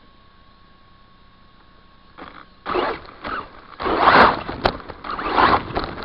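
Redcat Volcano RC truck driving over rough ground, heard through its onboard camcorder. A faint steady hum gives way, about two seconds in, to loud irregular scraping and rattling bursts with a few sharp clicks.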